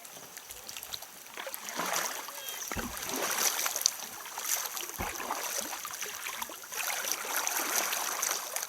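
Kayak paddling: water splashing and rushing in swelling bursts every couple of seconds, with a couple of low knocks.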